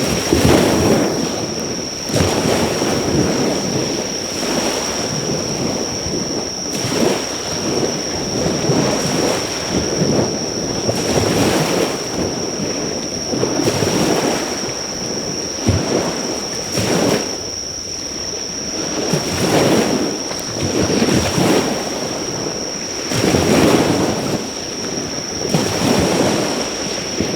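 Waves washing onto the shore in repeated surges, over a steady high-pitched insect drone; the odd faint crackle of a driftwood fire underneath.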